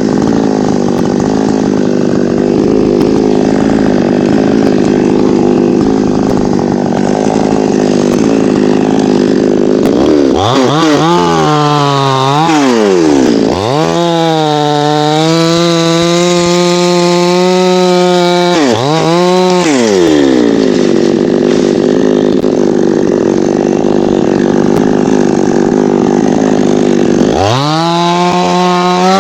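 Chainsaw cutting teak wood under load. The engine note is rough and steady for the first ten seconds, then the saw revs up and down with a clean high whine between about ten and twenty seconds, goes back to a rough cut, and revs again near the end.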